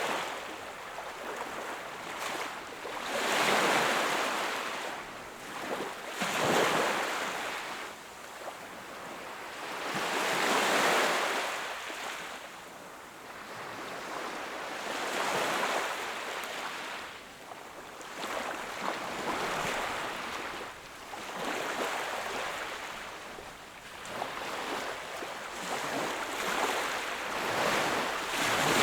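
Sea waves breaking and washing up the shore, one every few seconds, each a swelling and fading hiss.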